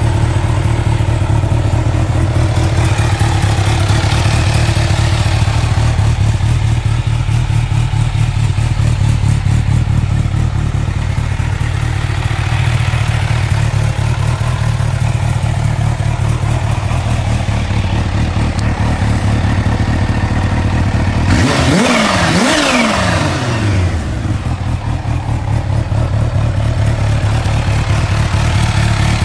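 Kawasaki H2's supercharged inline-four running at a steady idle through its exhaust, then revved in quick throttle blips about three quarters of the way through, the pitch rising and falling several times.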